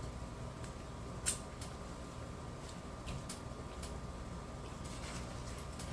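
A few light clicks and taps from small plastic model-kit parts being handled on a workbench, one sharper click about a second in, over a steady low room hum.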